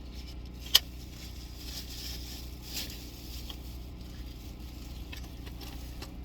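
Takeout food packaging handled inside a car: a sharp click just under a second in, then soft rustling and crinkling, over the car's steady low hum.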